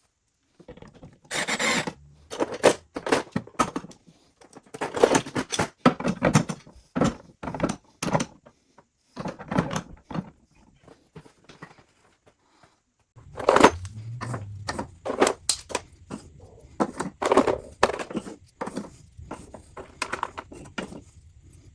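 Clusters of knocks, clicks and clatter of hard objects being handled and set down, with a low steady hum coming in about halfway through.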